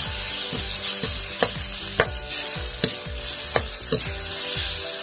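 Pounded garlic and coriander sizzling in hot oil in a metal wok, a steady hiss, while a spatula stirs and knocks against the pan about once a second or a little faster.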